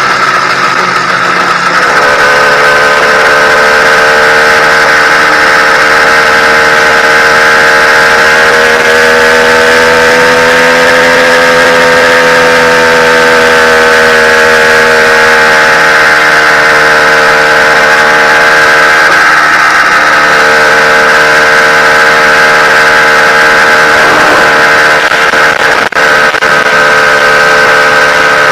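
YD100 two-stroke motorized-bicycle engine running under way at steady high revs during its break-in ride. Its pitch rises slightly and eases back around the middle.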